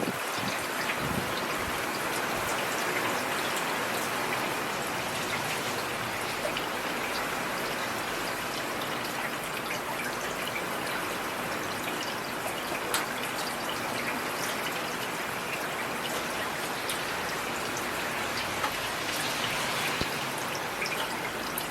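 Heavy rain falling steadily: an even hiss of drops with scattered sharper taps of individual drops striking a surface.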